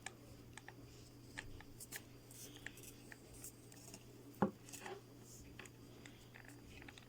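Faint handling noises of small craft panels being fitted together by hand: scattered light taps and clicks, with one louder knock about four and a half seconds in, over a low steady hum.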